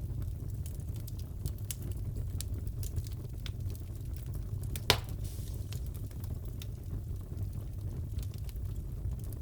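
Wood fire crackling in a fireplace: a steady low rumble with many small scattered crackles and one louder pop about five seconds in.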